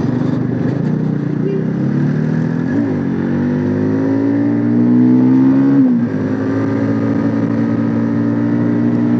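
Bajaj Pulsar NS motorcycle's single-cylinder engine pulling under the rider, its pitch climbing through the revs. Two quick drops in pitch, about three and six seconds in, mark gear changes, and after the second it holds steady.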